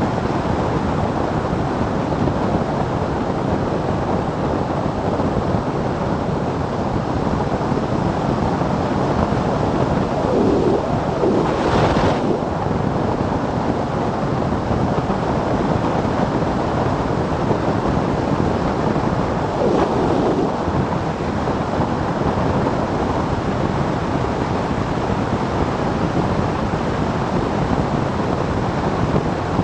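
Wind rushing over the microphone of a camera riding on a motorcycle at road speed, a steady roar with the bike's engine beneath it, briefly louder about twelve seconds in.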